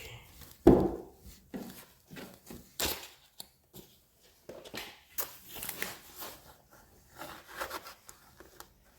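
Handling noises from unpacking a robot vacuum: irregular knocks, clicks and rustling of plastic and bag, with one sharp knock under a second in.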